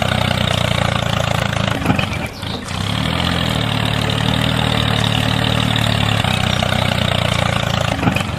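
An engine running steadily, with a brief dip and change in pitch about two seconds in before settling back to a steady run.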